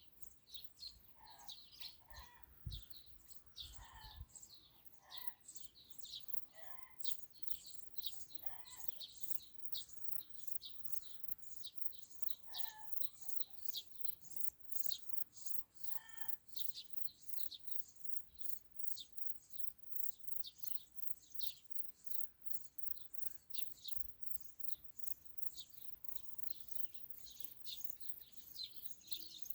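Birds chirping outdoors: dense, rapid high chirps throughout, with a lower repeated two-note call during roughly the first half. A few brief low bumps occur near the start and again later.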